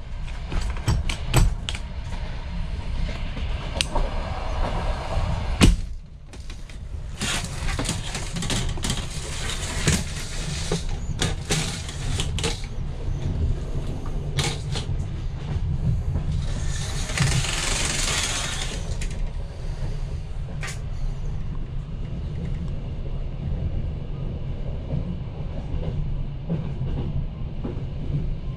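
Steady rumble of a Ukrainian Railways sleeper coach running, heard from inside the compartment. Clicks and knocks from the window fittings being handled, the loudest about six seconds in, and a brief rushing hiss a little past halfway.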